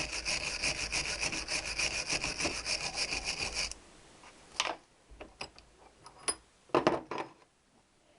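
Hand wire brush scrubbed quickly back and forth over a metal motorcycle engine part, a fast steady rasping of several strokes a second that stops a little under four seconds in. Then a few light knocks and clinks of metal parts being handled.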